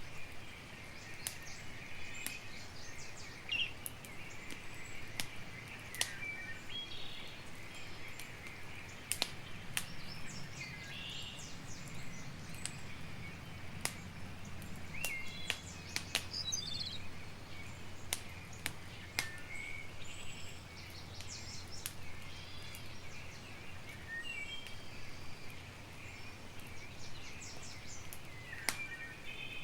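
Campfire crackling with sharp, irregular pops, over a background of birds chirping and a low steady rumble.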